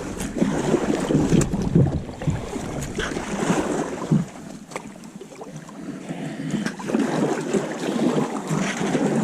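Water splashing and rushing around a kayak as it is paddled through swift river current, with a low wind rumble on the microphone that drops away about four seconds in.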